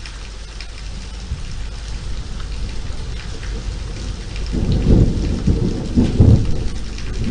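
Steady rain falling, with a low rumble of thunder that swells about four and a half seconds in, peaks twice and eases off near the end.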